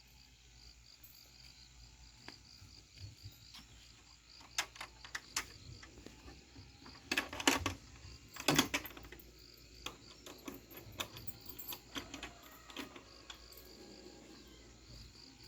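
Scattered knocks and clatters, with two louder clusters about halfway through, over a faint steady chirring of insects.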